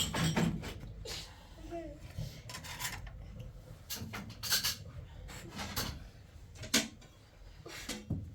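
Irregular clicks, knocks and rubbing of objects being handled.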